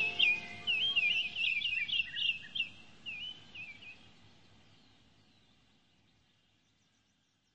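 A bird chirping: a quick run of short, high chirps over the first few seconds, then fading away.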